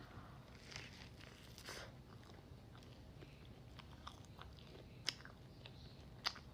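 Close-miked eating: a person chewing and biting into crunchy food, with scattered wet mouth clicks.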